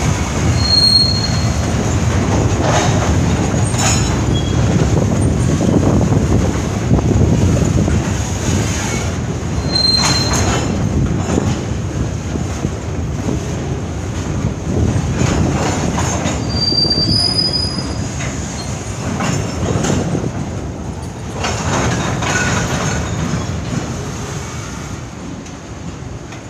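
Norfolk Southern freight train of boxcars rolling past: a steady rumble of steel wheels on rail with clicks over the rail joints and a few brief high wheel squeals, getting quieter near the end as the cars move off.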